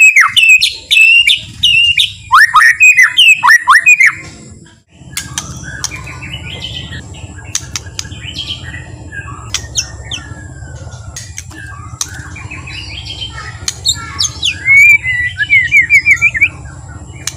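White-rumped shama singing: loud, clear whistled phrases of sweeping notes, then after a brief pause a softer, busier run of varied notes over a steady low hum, with a louder rapid trill near the end.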